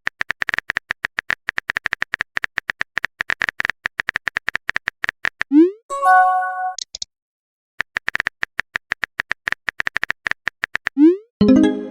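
Texting-app sound effects: a rapid run of typing clicks, broken about halfway through by a short rising swoop and a brief chime. The clicking then resumes, and a second swoop and chime come near the end.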